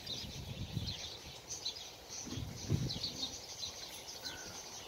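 Small birds chirping repeatedly in the surrounding trees, with a few soft low thumps about a second in and again around the middle.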